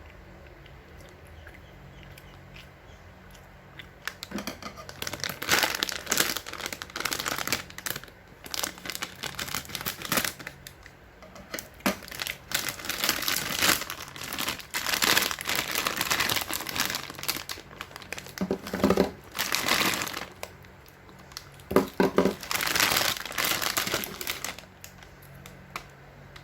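Snack packaging crinkling and tearing in irregular bursts as a packet is opened and handled, starting about four seconds in.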